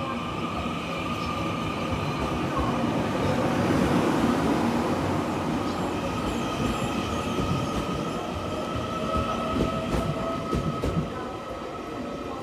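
Taiwan Railways Puyuma Express TEMU2000 tilting electric multiple unit pulling out of the station and rolling past. Its cars give a steady rumble with a steady high tone above it, loudest about four seconds in, and a few sharp wheel clicks come later on.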